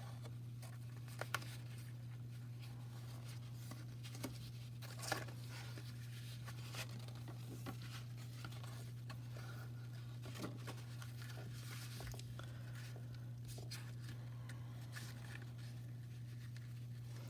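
Faint rustling and a few light taps as linen thread is wrapped around a paper greeting card, over a steady low hum.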